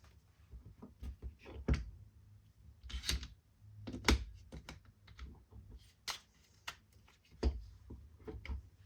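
Irregular clicks and knocks of a Wera Tool-Check Plus bit set being handled: its plastic case and the tools in it being moved and set down. The louder knocks come about three seconds and four seconds in and again past seven seconds.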